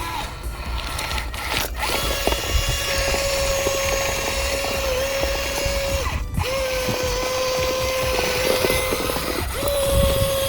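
Small electric motor whining at a steady speed, starting about two seconds in, with a short break midway and a slight dip in pitch a few times.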